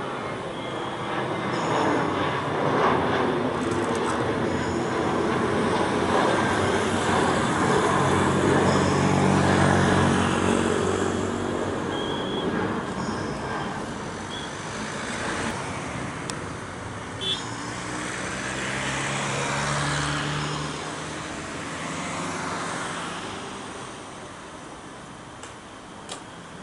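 Steady engine and traffic noise with a low hum. It swells to its loudest about ten seconds in, rises again briefly later, and then fades.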